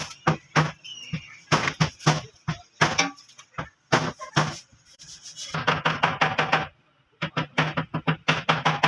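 Hammer blows on car body sheet metal during dent repair: scattered single strikes, then rapid runs of quick taps, about eight to ten a second, broken by a short pause about seven seconds in.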